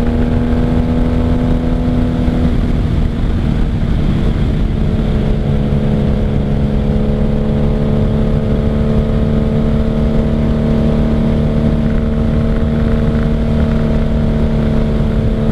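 Motorcycle engine running at steady cruising revs under way, with a slight drop in revs a few seconds in, over steady wind rush.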